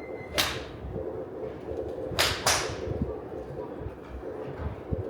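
Sharp cracks of golf clubs striking balls: one about half a second in, then two close together a little after two seconds.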